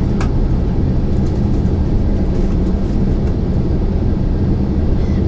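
Steady low rumble of cabin noise inside a Boeing 767-400ER on the ground before takeoff: engines and air-conditioning, with a faint click just after the start.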